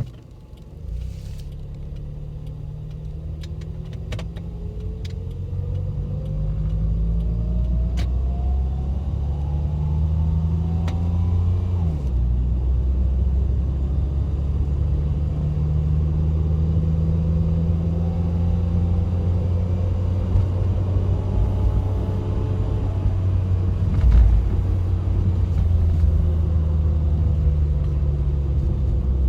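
Toyota Funcargo's 2NZ-FE 1.3-litre four-cylinder engine heard from inside the cabin as the car pulls away. The engine note climbs, drops sharply at a gear change about twelve seconds in, then climbs slowly again, over a low road rumble, with a single thump a little past the middle.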